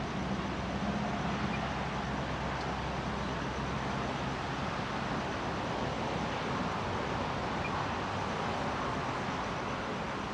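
Distant diesel locomotives hauling a train of acid tank wagons: a steady rumble and hiss, with a low engine hum that fades out about five seconds in.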